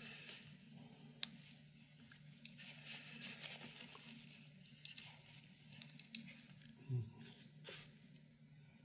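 Faint rustling, scraping and scattered small clicks of close-up handwork on a small fan bearing and tools, over a faint steady hum.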